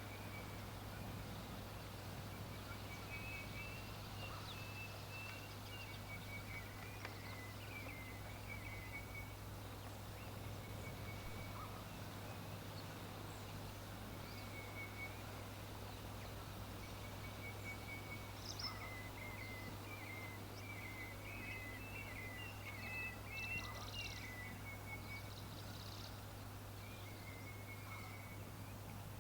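Faint bird twittering: runs of short, quick high chirps recurring throughout, over a steady low hum.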